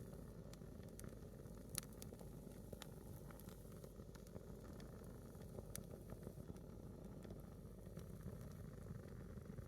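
A small wood fire burning a single log, faintly crackling with sparse pops, one sharper pop a little under two seconds in, over a low steady rumble.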